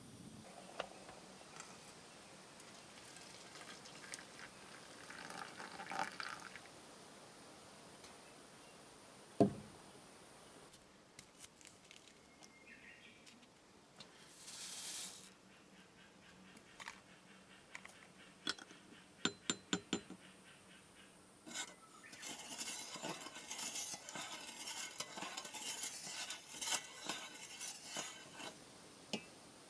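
Scattered clinks and knocks of utensils against cookware as food is handled and stirred, with one louder knock about nine seconds in and a busier stretch with a sizzle-like hiss in the last third.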